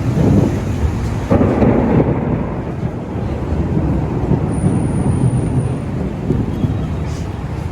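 Thunder rumbling: a long low rolling rumble that swells again about a second and a half in and carries on for several seconds.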